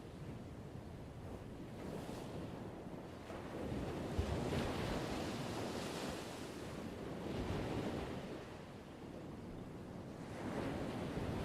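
Ocean surf: waves breaking and washing in, the rush swelling and falling back every few seconds.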